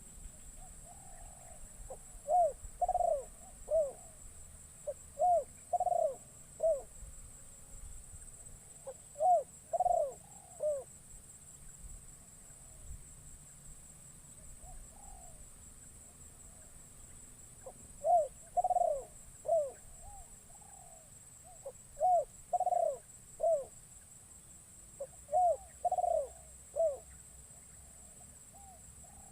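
Spotted dove (terkukur) cooing in phrases of three or four notes, about six phrases a few seconds apart. It is a caged decoy bird calling to lure wild doves.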